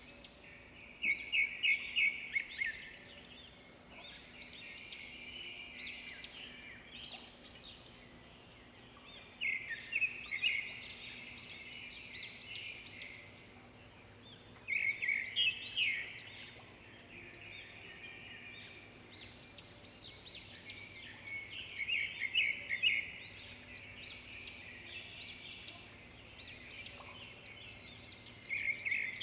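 Birdsong: a loud song phrase of quick, repeated high notes every six to eight seconds, five times, with softer chirps from other birds in between.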